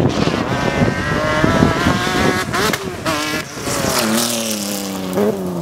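Racing car engine running hard at high revs, its note shifting up and down, then falling steadily in pitch over the last second and a half.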